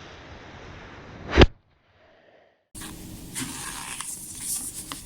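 A brief rising whoosh that ends in one loud bang about a second and a half in, then about a second of silence, then light rustling with small, sharp clicks.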